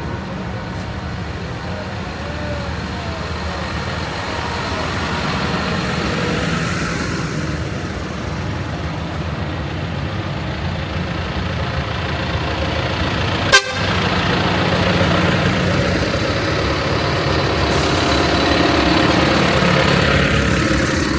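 Tractor engines running steadily in a passing procession, with vehicle horns tooting. A single sharp click cuts through about thirteen seconds in.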